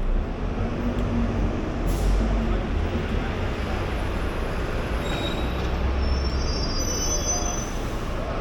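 Steady city traffic rumble with a heavy vehicle's brakes squealing and hissing. There is a short hiss about two seconds in, and high thin squeals and another hiss near the end.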